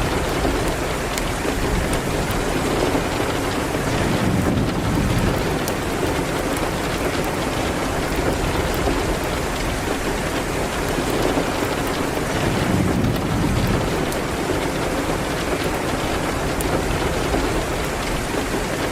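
Steady heavy rain, a dense even hiss of drops on a surface, with two low rumbling swells, about four seconds in and again near thirteen seconds, and scattered sharp little clicks throughout.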